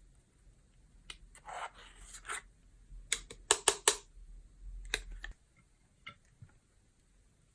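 Clear slime being worked by hand, giving short sticky clicks and crackles. A cluster of sharp clicks comes about three to four seconds in, and only a few faint clicks follow after about five seconds.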